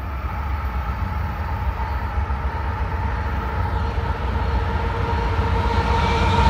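Union Pacific diesel locomotive approaching, its low rumble growing steadily louder, with a few steady high tones rising over it.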